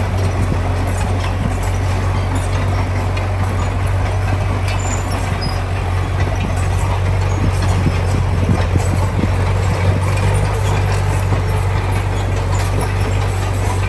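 Heavy diesel earthmoving machinery running steadily, a deep constant engine hum, with irregular knocks and clanks around the middle.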